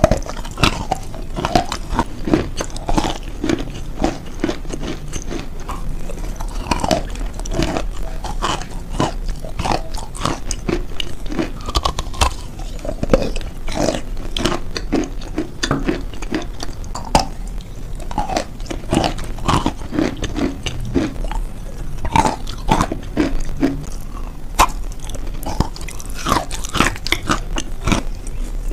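Close-miked biting and chewing: a dense, irregular run of crisp crunches and crackles as a mouthful is chewed.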